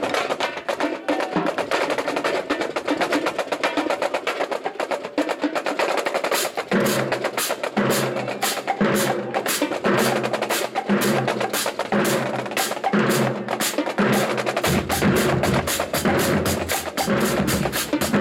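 Marching band drumline playing a cadence: a rapid, dense snare-drum pattern. About seven seconds in, repeated pitched low drum beats join, and deeper low notes come in a few seconds before the end.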